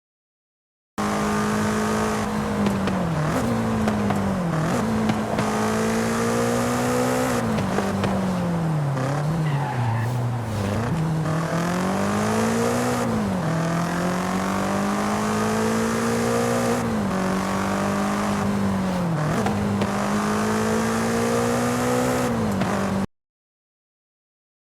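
Car engine driving under load, its pitch rising and falling again and again as it speeds up and slows. It starts about a second in and cuts off suddenly near the end.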